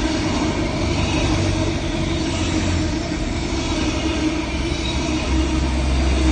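Train running on the rails: a steady rumble with a low, even hum.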